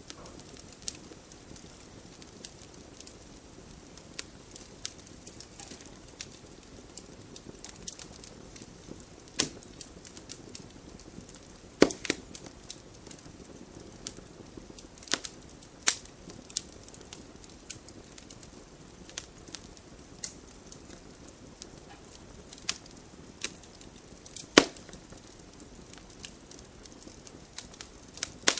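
Wood fire burning in a fireplace: a steady low hiss with irregular crackles and pops, a few sharp loud snaps among them.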